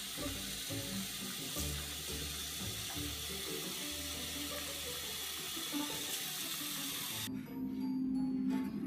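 A steady rushing hiss, like water running, over quiet background music. The hiss cuts off suddenly about seven seconds in, leaving the music.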